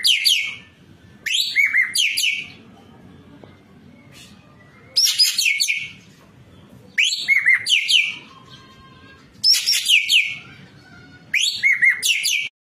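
Ekek keling songbird singing loud, repeated phrases, each about a second long and made of quick, sweeping whistled notes, with a phrase roughly every two seconds and a short gap in the middle.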